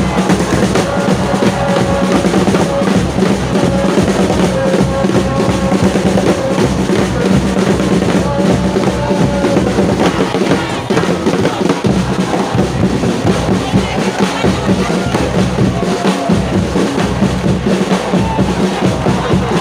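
Football supporters' drum section beating a fast, continuous rhythm in the stands, with the crowd's massed singing over it.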